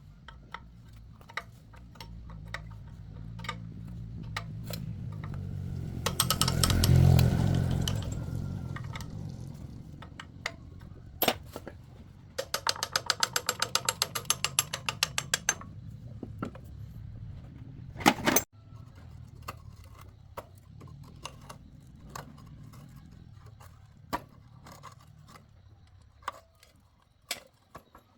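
Mechanic's hand tools working on excavator parts: scattered metal clicks and knocks, with a rapid run of clicks, about ten a second, lasting some three seconds midway, and a sharp knock soon after. A low hum swells and fades about a quarter of the way through.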